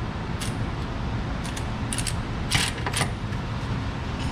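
Metal hand tools clinking and tapping several times in short, sharp strikes over a steady low shop hum.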